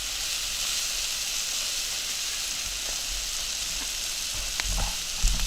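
Meat sizzling as it grills over a wood fire, a steady hiss with a few light crackles and low knocks in the last second.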